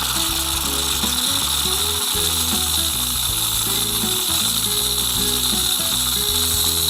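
Philips EP2200 espresso machine's steam wand steaming milk in a pitcher: a steady, high hiss, over background music.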